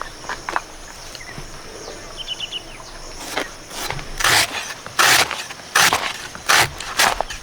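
Steady insect buzz with a brief bird trill, then, from about three seconds in, loud rustling, crunching strokes, roughly one every 0.7 seconds.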